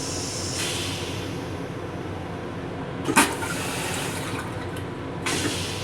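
Toilet in an M7 railcar restroom flushing: a hiss about half a second in, a sharp loud whoosh about three seconds in, and another short hiss near the end, over the steady rumble of the moving train.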